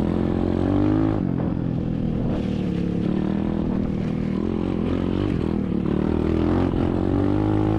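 SSR 125cc dirt bike's single-cylinder four-stroke engine running as it is ridden, the revs rising and falling several times.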